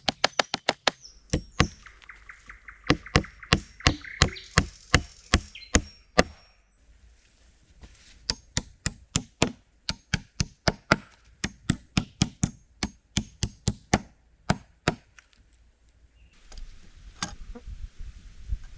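Rapid blows of a tool striking wood, about three a second, in two long runs with a short pause about six seconds in, then a few scattered strikes near the end.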